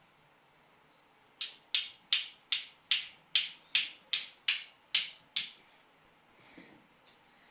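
A run of eleven sharp, evenly spaced knocks, about two and a half a second, lasting about four seconds.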